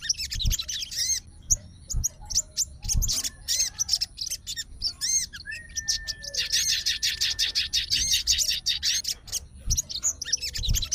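Sogon songbird singing in rapid runs of high, arched chirps, with one long dense run about two-thirds of the way through and a held steady whistle beneath it. A few soft low thumps come now and then.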